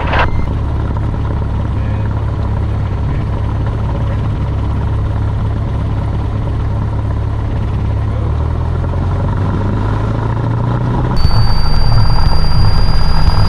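Cessna 172 Skyhawk's single piston engine and propeller running steadily, heard from the cockpit. About eleven seconds in it suddenly gets louder, with a steady high whine added, as power comes up for the takeoff roll.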